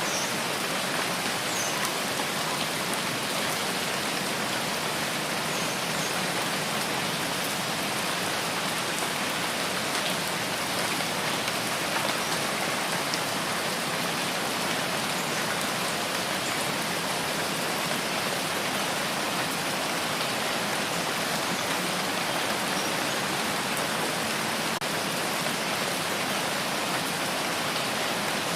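Steady rain falling and pattering on a surface, an even dense hiss with a few faint individual drop ticks.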